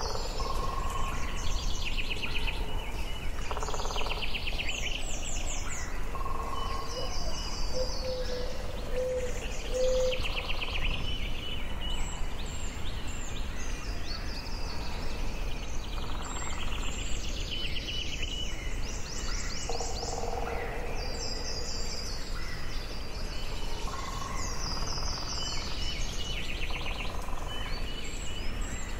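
Forest ambience: several songbirds singing in short phrases and rapid trills that recur every few seconds, over a steady low background noise.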